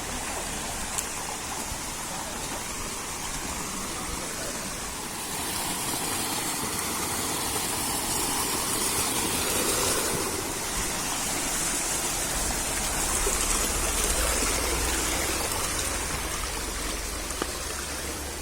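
Steady rush of flowing water from a mountain stream or waterfall, growing a little louder about five seconds in.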